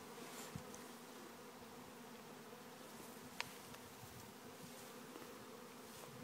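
Faint, steady hum of a honeybee swarm buzzing, with one sharp click about three and a half seconds in.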